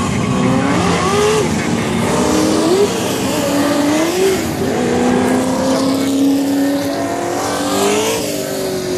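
Several Trans Am muscle cars' V8 engines running at low speed as they roll out onto the track. A handful of short throttle blips (about four) briefly raise the pitch over a steady rumble.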